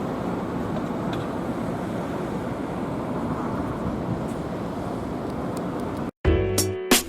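Steady street traffic noise, with a tram line's rumble and road noise mixed, broken by a few faint clicks. It cuts off abruptly about six seconds in, and background music with a beat starts just after.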